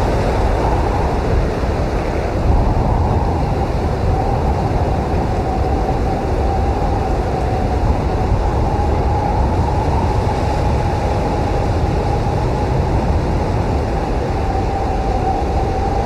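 Heavy blizzard wind blowing steadily: a deep rumble with a faint, wavering whistle.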